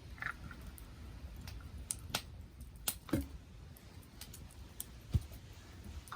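Wood campfire crackling: irregular sharp pops and snaps from the burning wood, a few every second or two, over a low steady rumble of the flames.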